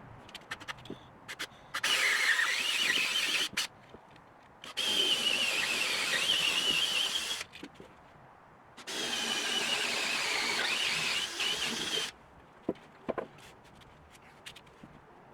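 Power drill run in three bursts of two to three seconds each, its high whine wavering under load as it works into wooden wall framing. A few light clicks and knocks come between the bursts.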